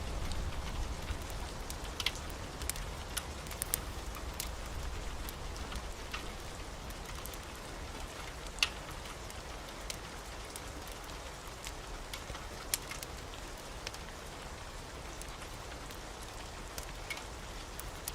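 Steady heavy rain with scattered sharp pops. A low thunder rumble dies away over the first few seconds.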